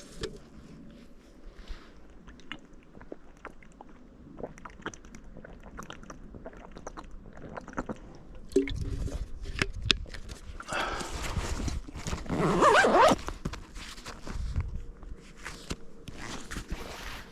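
Footsteps with crunching and rustling through brush and ground cover, made up of scattered clicks and crunches. It grows louder and busier from about halfway through, loudest a few seconds later.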